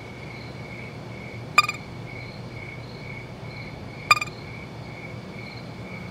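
A robot's electronic low-battery warning: three short beeps about two and a half seconds apart, over a faint steady warbling tone.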